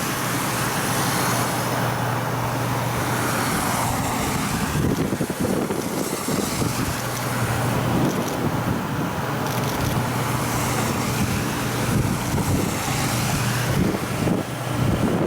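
Freight train running, hauled by a DF200 diesel-electric locomotive: a steady low engine drone under rolling wheel noise, which turns into a heavier, uneven rumble about five seconds in.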